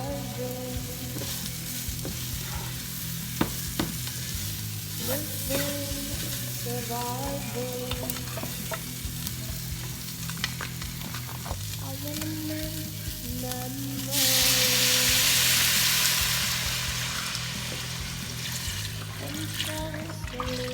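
Food sizzling as it browns in a hot pot, stirred with a utensil that clicks against the pot now and then. About 14 seconds in, the sizzling swells to a much louder hiss for a few seconds, then eases back.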